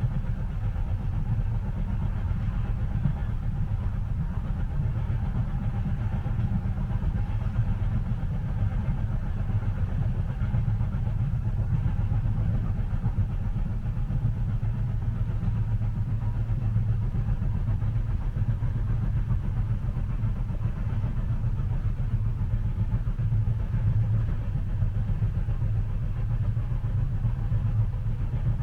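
Train cabin ambience: a steady, deep rumble of a railway carriage in motion, with a faint hum above it and no distinct clacks of the rails.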